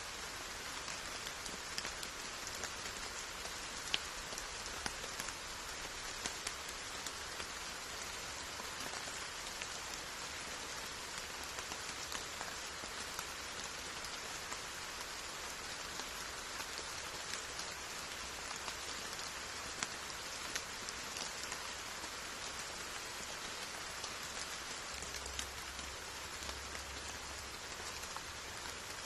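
Steady rain falling, a dense even hiss with scattered louder individual drops ticking through it.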